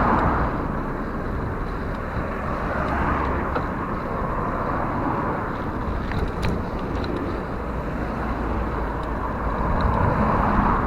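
Rushing wind on the microphone of a moving bicycle, with steady low road rumble that swells louder near the start and again near the end, and a few light clicks about two-thirds of the way through.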